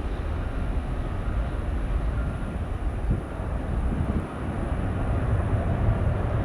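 Jet airliner engines rumbling steadily at takeoff power, a deep, even roar.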